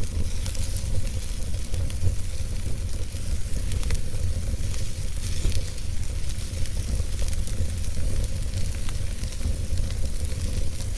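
Wood fire crackling in a fireplace: scattered small pops and snaps over a steady low rumble and hiss.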